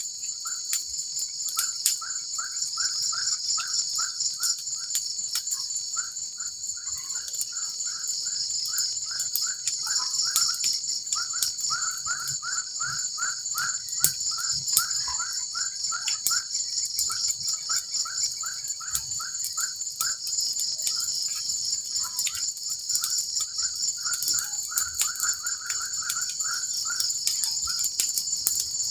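Steady high-pitched insect chorus of crickets or cicadas in tropical forest, with runs of a short repeated chirp at about three a second and scattered faint clicks.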